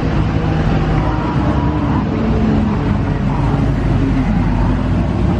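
Car engines running as vehicles move along, a steady mechanical rumble with no sudden events.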